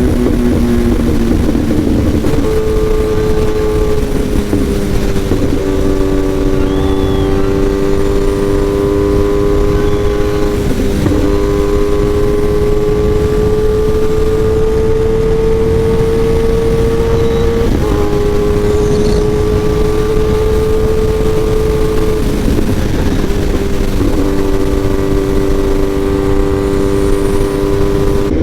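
Kawasaki ZX-10R inline-four sportbike engine running through an SC Project aftermarket exhaust while riding. The engine note holds fairly steady or climbs slowly, broken by a gear change every few seconds, over heavy wind and road rush.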